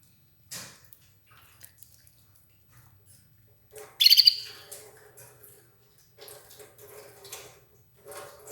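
Red ivory canary calling in short chirps, with one loud, sharp call about four seconds in.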